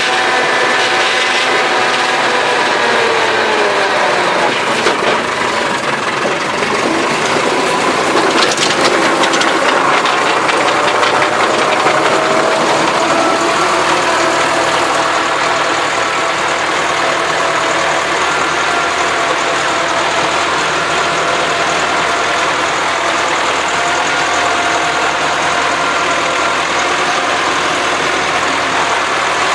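Massey Ferguson tractor engine running steadily while working the ground. Its pitch dips a few seconds in and then slowly climbs back, as the engine's speed changes with the load.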